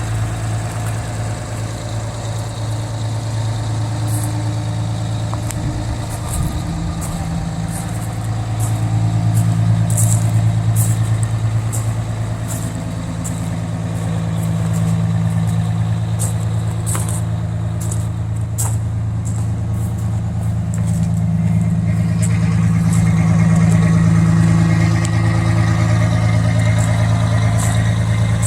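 Fire engine's diesel engine idling steadily at an even pitch, swelling and easing slightly in loudness, with scattered faint high ticks through the middle.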